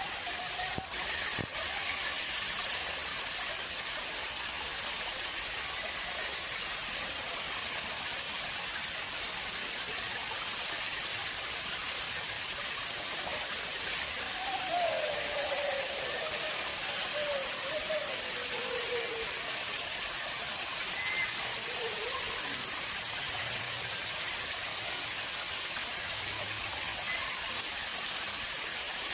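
Water flowing steadily into a man-made pond, a constant splashing rush. A faint wavering tone drifts down in pitch about halfway through, and there are two light clicks near the start.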